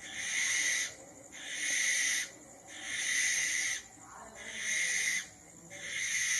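Barn owl giving a series of harsh, hissing screeches, each about a second long, about five in a row with short gaps between.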